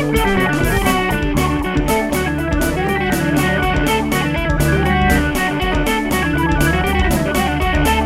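Live band playing an instrumental passage: electric guitar over bass guitar and a drum kit keeping a steady beat.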